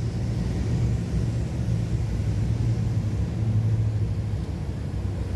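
Cessna 402's twin piston engines droning steadily, heard from inside the cabin, a low hum with a rushing noise over it.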